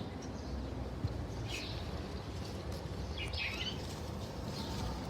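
Bird chirping: three short, high chirps spaced about a second and a half apart, over a steady low background hum.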